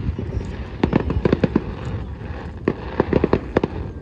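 Fireworks display: a rapid, irregular run of aerial shell bursts and booms, several close together in clusters, over a continuous low rumble.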